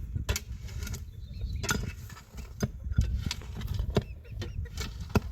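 Irregular sharp knocks and clacks, about one or two a second, over a low rumble, with a few faint short chirps between them.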